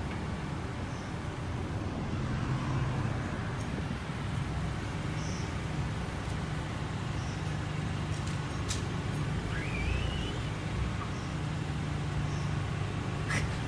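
1992 Honda Prelude Si 4WS engine idling steadily. About ten seconds in there is a short rising squeak, and a couple of sharp clicks.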